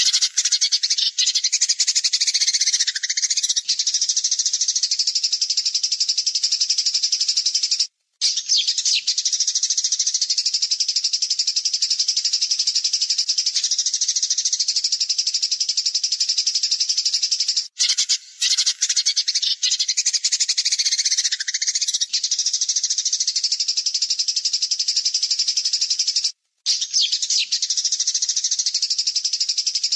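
Recorded songbird calls: a continuous, fast, harsh, high-pitched trilling, broken by three very short gaps. Twice a call sweeps downward in pitch.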